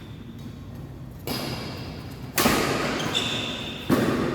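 Badminton racket hitting the shuttlecock three times in a rally, each hit ringing out in a large hall.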